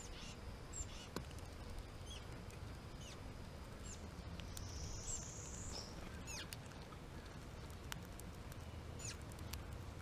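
Songbird chip calls: short, sharp notes that drop in pitch, scattered a few at a time, with one longer buzzy high note near the middle and a few faint clicks.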